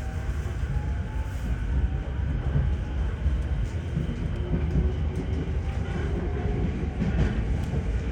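Sōbu Line local electric train heard from inside the carriage, rumbling along the rails as it gathers speed after leaving a station. A faint motor whine rises slowly in pitch over it.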